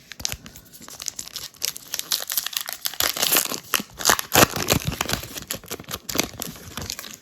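Trading-card pack wrapper being torn open and crumpled: a dense run of crinkles and crackles.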